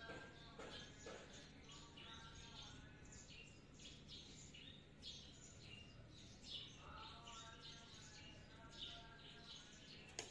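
Faint chirping of small birds in the background, many quick high chirps in a row, over a low steady hum.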